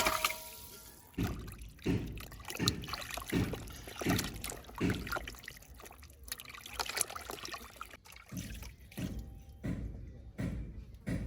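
Water sloshing and trickling in regular surges, about one every 0.7 seconds, each fading quickly.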